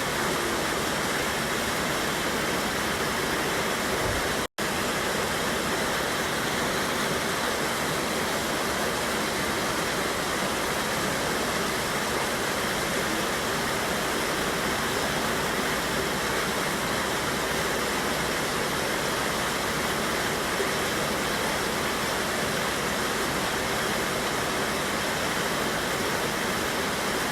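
Steady rush of water from a small river waterfall, an even, unbroken wash of sound, with a split-second dropout about four and a half seconds in.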